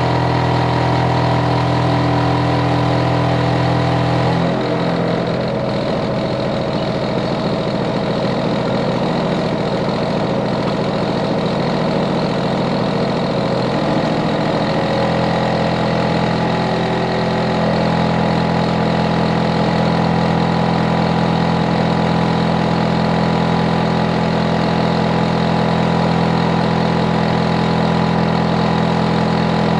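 Hitachi air conditioner outdoor unit running loudly, a steady hum from its compressor and fan with several held tones. The hum shifts about four seconds in, wavers, and settles back into a steady drone about fifteen seconds in.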